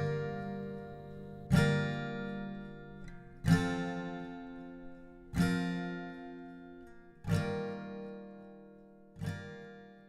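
Background music: slow acoustic guitar, a chord strummed about every two seconds and left to ring out, five strums in all, each a little softer as the music fades.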